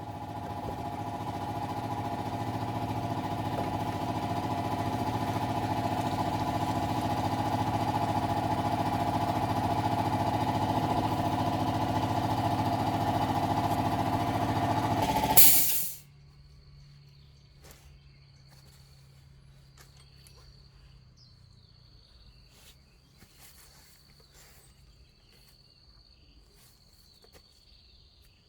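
A motor running at a steady speed for about fifteen seconds, then cutting off abruptly with a sharp click. Afterwards there are faint scattered clicks and a thin high steady tone.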